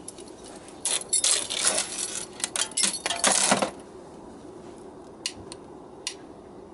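Metal parts of a candle lantern clinking and rattling as it is put back together around a fresh candle: a quick flurry of clatter for about three seconds, then two single light clicks.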